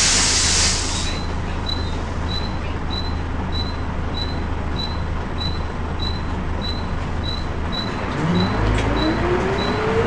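Volvo B10BLE bus: a burst of air brake hiss at the start, then the engine running steadily, with a faint high-pitched chirp repeating about two and a half times a second: the strange high-pitched noise this bus makes. Over the last two seconds a whine rises steadily in pitch as the bus pulls away.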